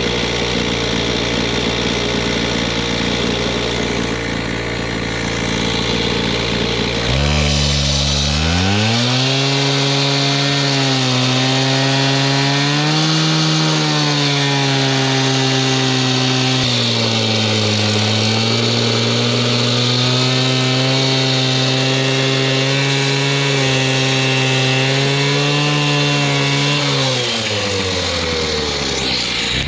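Gas-powered concrete saw cutting a concrete driveway. The engine runs low for the first several seconds, revs up sharply about seven seconds in and holds high through the cut with small rises and dips in pitch, then drops back down near the end.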